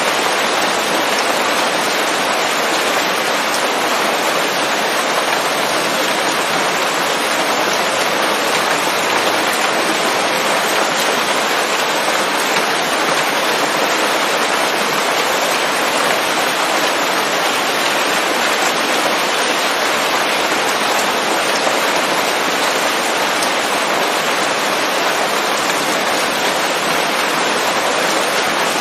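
Steady rain falling on leaves in a forest, a dense even patter with no thunder.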